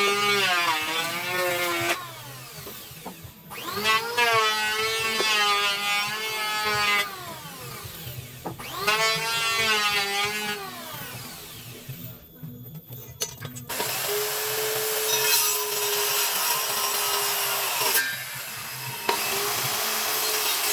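A handheld electric power tool working wood. Its motor whines up to speed and its pitch sags as it bites, three times in short runs of two to three seconds. From about the middle on it runs longer and steadier with a rough cutting noise.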